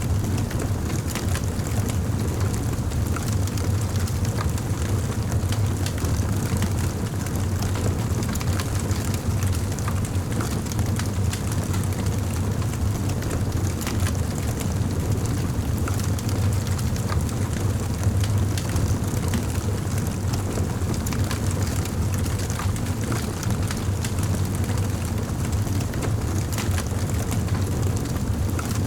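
Wood fire in a fireplace crackling, with frequent small pops and snaps over a steady low rumble.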